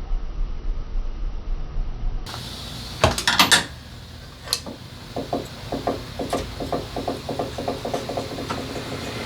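Hand-tool work on a motorcycle engine: a few sharp metal knocks, then a run of even clicks, about four a second. Before these there is a low pulsing mechanical sound.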